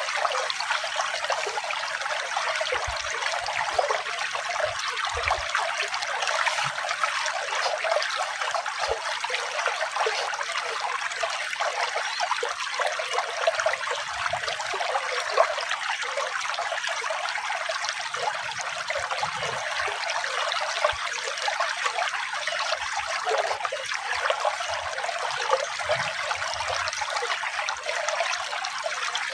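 Running water trickling and splashing steadily, a continuous bright rush with little deep sound in it.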